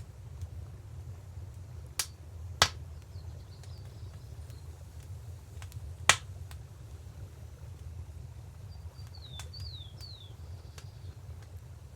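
Wood fire crackling with three sharp pops, two close together about two seconds in and another near the middle, over a steady low rush of river water. Small birds chirp with short falling notes, most clearly near the end.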